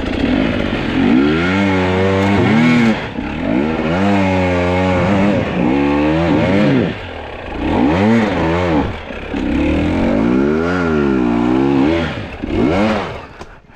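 Two-stroke enduro dirt bike engine revved hard in repeated bursts, the pitch rising and falling about six times, roughly every two seconds, as it is worked up a steep technical climb.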